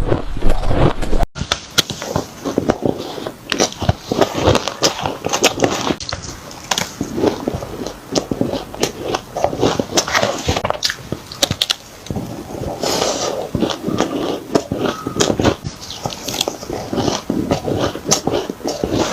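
Close-miked chewing of spoonfuls of shaved ice: dense, irregular crunching with many sharp crackles.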